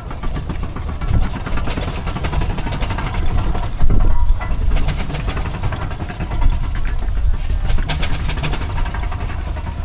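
Steam engine running: a steady low rumble with quick clicks, swelling louder about four seconds in.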